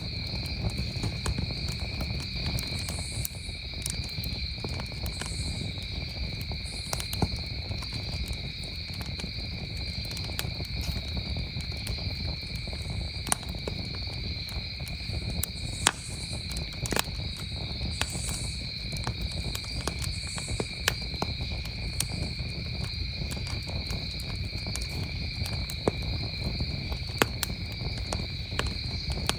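Crickets trilling steadily, with irregular sharp pops and crackles from a burning campfire.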